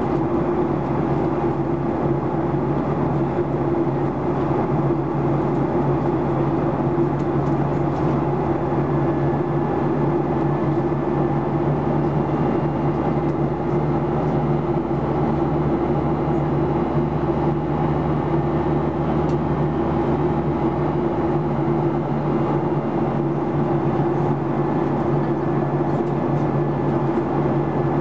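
Boeing 737-800 cabin noise in flight: a steady roar of airflow and CFM56-7B turbofan engines, with a few constant low hums running through it.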